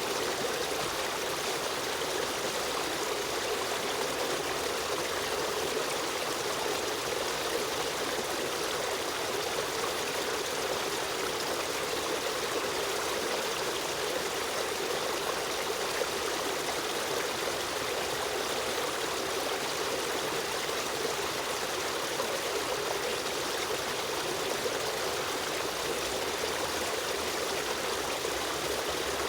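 Stream water running and trickling steadily, a constant even rush with no breaks.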